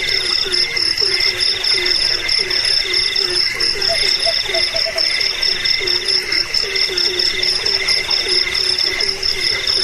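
A chorus of crickets and other insects trilling steadily, some in pulsed runs that start and stop every second or two. Under them, frogs croak in short, low calls repeated a few times a second.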